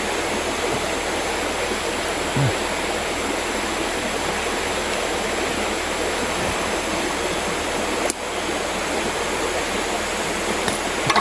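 Mountain river water flowing and rushing, a steady even water noise, with a single sharp click about eight seconds in.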